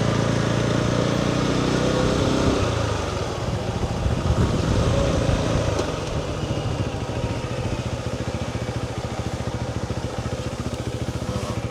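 Motorcycle engine running, picked up by a chest-worn microphone on the rider. It holds a steady note for the first few seconds, changes about three seconds in, and from about six seconds settles into a quieter, evenly pulsing beat.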